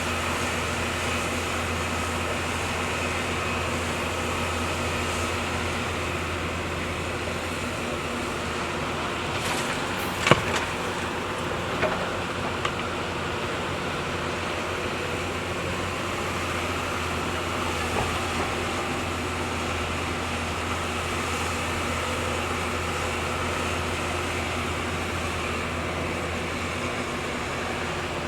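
Heavy earthmoving machinery's diesel engine running steadily with a low hum, with a sharp knock about ten seconds in and a few lighter knocks later.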